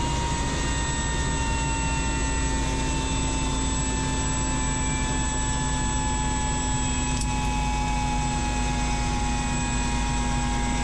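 Helicopter turbine engine and rotor running steadily: a heavy low drone under several whining tones that slowly drop in pitch.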